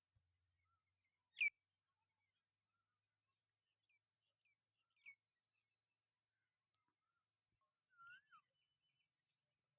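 Sparse bird chirps over near silence: one short downward chirp, the loudest, about a second and a half in, a few small chirps near the middle, and a rising-then-falling call near the end.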